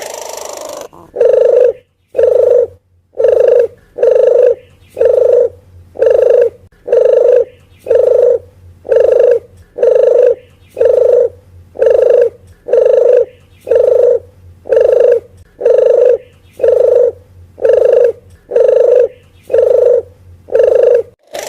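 Puter geni (reddish ringneck dove) cooing, as used in a bird lure recording. One short low coo repeats evenly about once a second, after a brief burst of noise at the very start.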